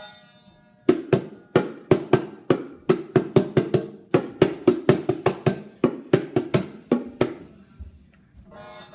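A fast, steady run of sharp percussive knocks, about four a second, starting about a second in and stopping a couple of seconds before the end.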